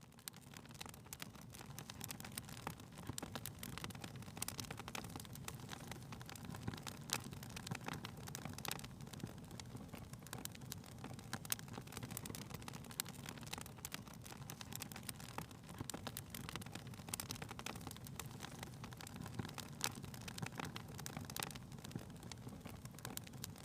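Wood fire crackling in a fireplace: a steady low rumble of flame with irregular sharp pops and crackles.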